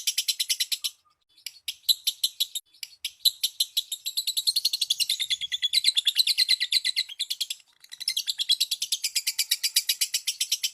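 Lovebird chattering: a long, fast string of shrill chirps, about eight a second, breaking off briefly a few times before picking up again.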